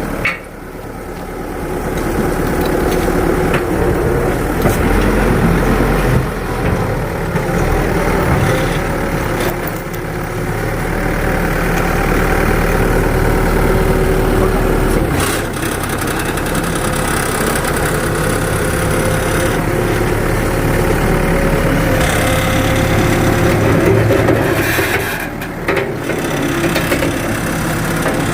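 An engine running steadily at idle, its note shifting a few times.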